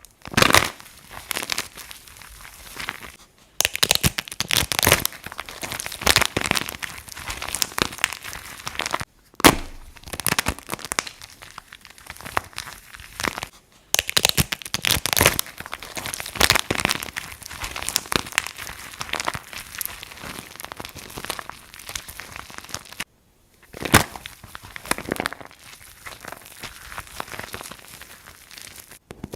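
Dry soap crunching and crackling as it is cut or crushed: a dense run of sharp crisp cracks, in several separate stretches with short silent breaks between them, and a few single loud cracks standing out.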